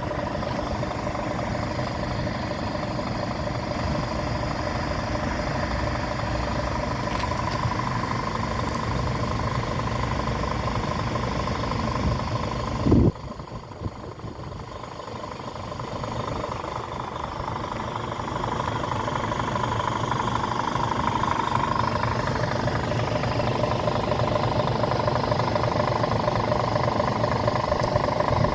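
Scania diesel engine idling steadily. About halfway through comes a short loud burst, after which the sound drops and slowly builds back to its earlier level.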